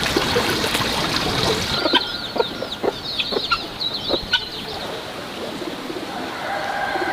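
Farmyard chickens: a flurry of quick, high peeping chirps, and near the end a rooster starting to crow.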